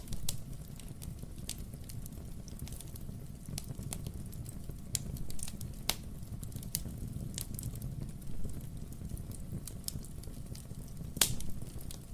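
Wood fire burning in a fireplace: a steady low rumble of flame with scattered crackles and pops from the logs, one sharper pop about eleven seconds in.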